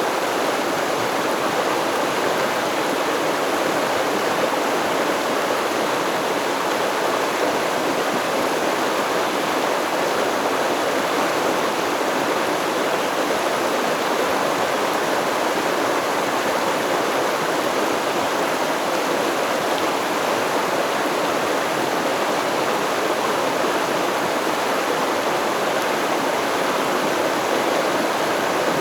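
Stream water flowing and babbling steadily over rocks.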